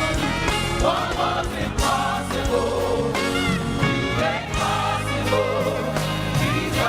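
Live gospel praise music: voices singing together over a band, with a steady drumbeat and bass.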